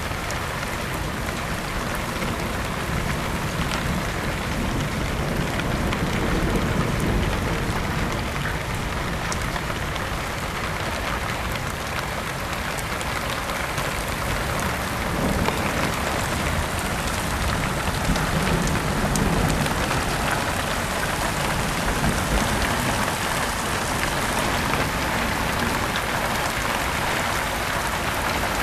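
Heavy rain falling steadily, with a low rumble that swells up a few times.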